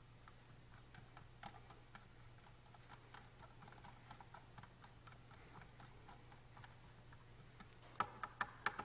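Faint small clicks and taps of hands fitting a plastic ADAM-6051 I/O module into place, with a quick run of sharper, louder clicks about eight seconds in. A steady low hum sits underneath.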